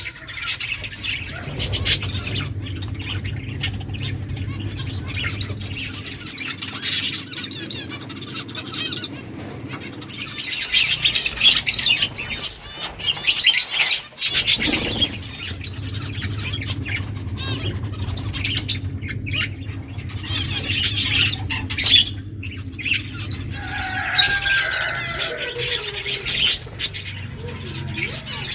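Finches chirping in quick, busy bursts, mixed with short clicks, over a steady low hum.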